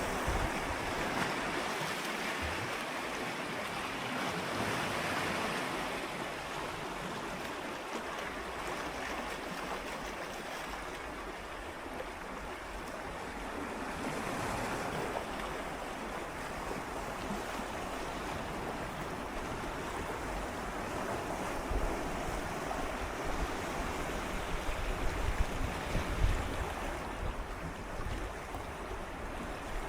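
Gentle sea waves swirling and lapping against shoreline rocks, the wash swelling and ebbing every several seconds. Low wind rumble on the microphone comes in at the start and again in the last several seconds, where it is loudest.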